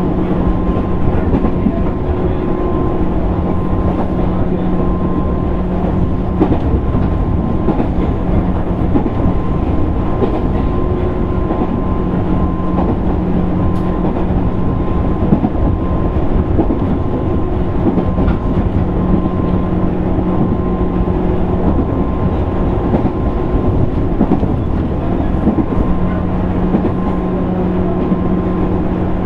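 Running noise inside the motor car of a JR East 205 series 600 electric train moving at a steady pace: a continuous rumble of wheels on rail with a few steady hums that fade in and out, and now and then a faint knock.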